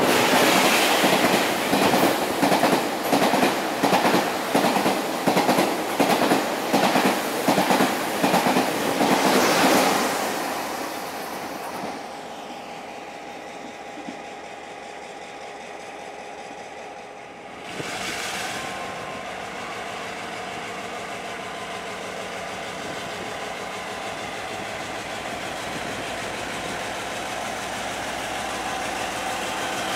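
Train passing, its wheels clattering over the rail joints in a quick, even rhythm about twice a second for the first ten seconds, then fading away. About eighteen seconds in, a steadier rumble sets in and slowly grows louder.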